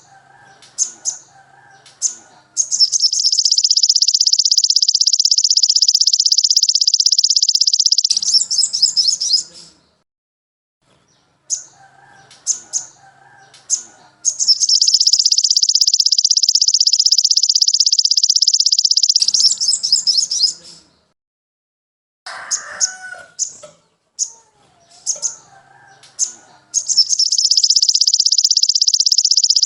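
Songbird song from a looped tutoring (masteran) track for sogon sunbirds. A few short, sharp chirps lead into a long, fast, high-pitched trill lasting about five seconds, and the whole phrase repeats three times. Between the trills there are faint lower calls.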